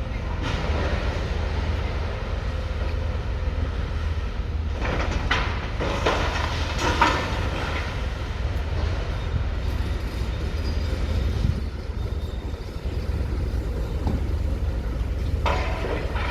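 Demolition excavator working over a steady low rumble, with crunching and clattering of broken building debris around five to seven seconds in and again near the end.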